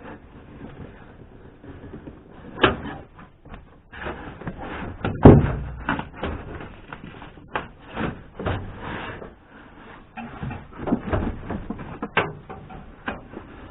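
Irregular knocks, clicks and rustling of a car's interior roof lining and trim being pried and pulled loose, with one heavier thump about five seconds in.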